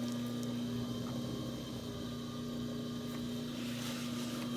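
Electric pottery wheel motor running at a steady speed, giving a constant low hum.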